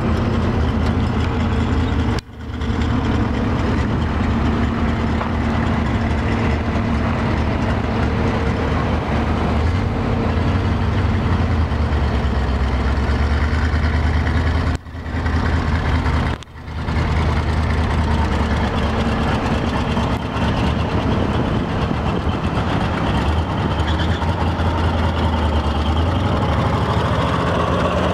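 International grain truck engine running steadily at a low, even speed. The sound breaks off briefly three times, at about 2, 15 and 16.5 seconds in.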